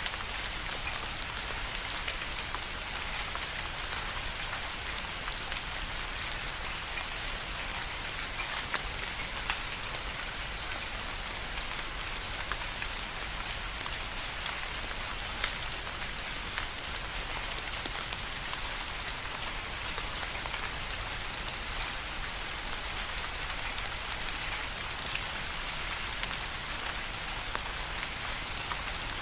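Steady rain falling, a dense even hiss with many small distinct drop ticks on a hard surface.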